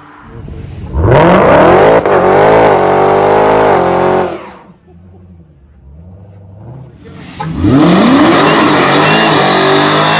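Modified car engine revving hard as the car accelerates away, its pitch sweeping up. This happens twice: about a second in and again about seven and a half seconds in, with a quieter lull between.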